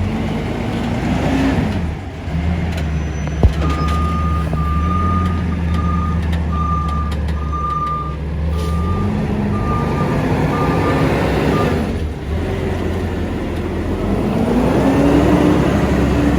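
Peterbilt garbage truck's diesel engine running, with its back-up alarm beeping in an even string for about eight seconds while the truck reverses. A sharp click comes about three and a half seconds in, and the engine revs up near the end.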